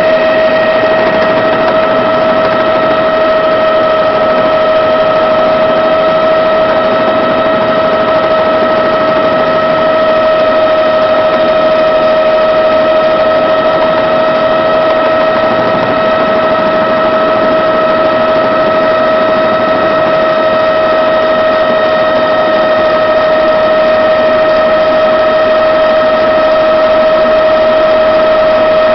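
Helicopter in steady flight: a constant high whine over even engine and rotor noise, holding one pitch throughout.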